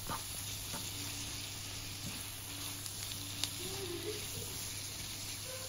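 Asparagus sizzling steadily in butter and garlic olive oil in a frying pan as it is turned with a wooden spatula, with one faint click about three and a half seconds in.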